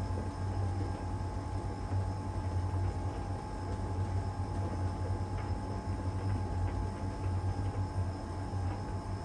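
LG heat pump tumble dryer running mid-cycle in its drying phase: a steady low hum with a steady higher tone over it as the drum turns, and a few faint light taps from the tumbling load.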